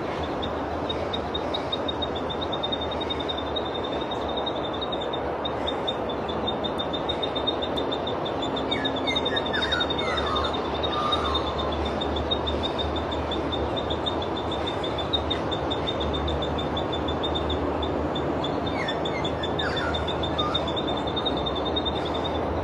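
Two short, falling whistled song phrases from a thick-billed spiderhunter, one about nine seconds in and one near nineteen seconds. They sound over a steady rushing background noise and a continuous high, rapidly pulsing trill.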